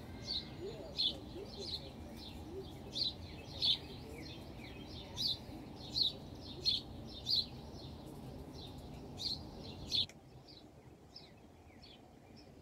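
A bird chirping: short, sharp chirps repeated about once a second over a steady low background noise. The background noise cuts off suddenly about ten seconds in, and the chirps after that are fainter.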